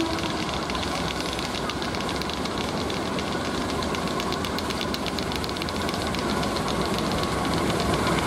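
CC206 diesel-electric locomotive's engine running under load as it pulls a passenger train slowly over the station pointwork, puffing light exhaust smoke, with a dense patter of fine clicks over a steady rumble. The last of a horn note dies away at the very start.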